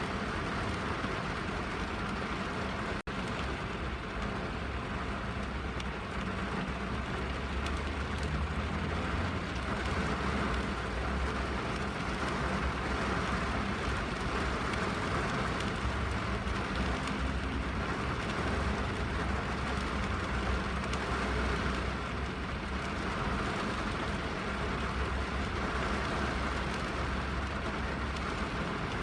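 Steady rain on a car's roof and windows heard from inside the cabin, with a low, steady rumble underneath. The sound cuts out for a split second about three seconds in.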